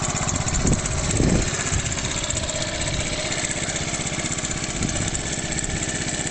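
Honda Chaly CF70's 72cc four-stroke single-cylinder engine idling steadily, with a short swell about a second in.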